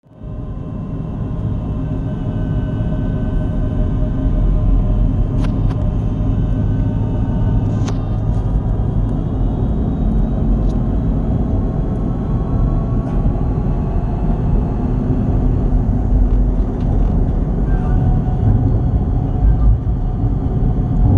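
Gimpo Goldline light-metro train running, heard from inside the car: a steady rumble of wheels on track with a thin whine, and a couple of sharp clicks about five and eight seconds in.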